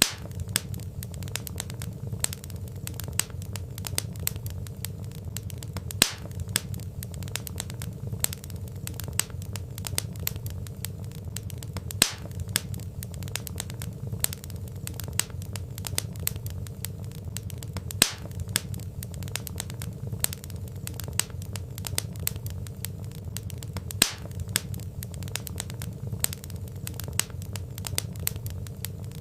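Wood fire crackling steadily: a constant low rumble of burning logs with many small sharp pops, and a louder pop about every six seconds.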